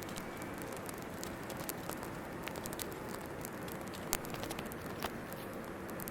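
Wood campfire crackling: scattered small snaps over a steady hiss, with two sharper pops about four and five seconds in.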